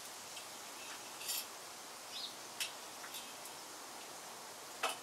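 Cooking utensils clicking and clinking a few times, with the sharpest click near the end, over a faint steady hiss.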